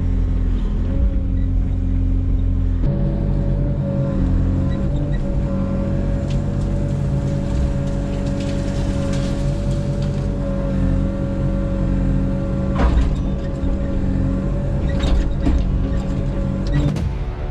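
Yanmar SV100 excavator's diesel engine running steadily at work. Its pitch steps up about three seconds in, and a few sharp knocks come in the second half.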